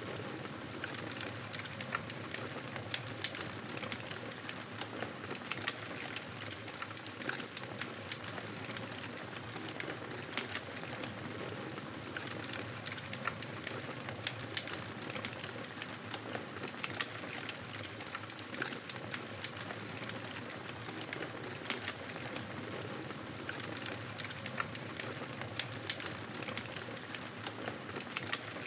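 Fire crackling in a fireplace: a steady hiss with frequent, irregular sharp pops and snaps.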